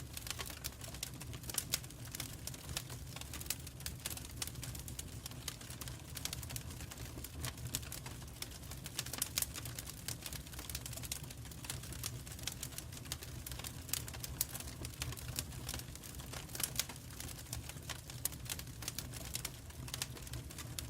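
Wood fire crackling in a fireplace: irregular sharp pops and snaps, some louder than others, over a steady low rumble of the flames.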